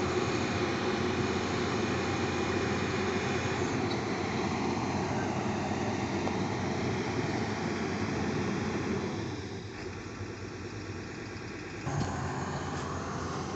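Heavy equipment engine running steadily. It eases off about nine seconds in, then there is a single knock about three seconds later and it picks up again.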